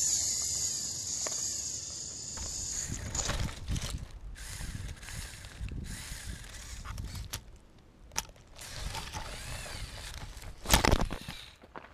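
LEGO Technic remote-controlled tractor's Power Functions motors and plastic gearing whirring and clicking as it works over rough ground. A high whine fills the first few seconds, then comes irregular clicking and rattling, and a loud knock near the end.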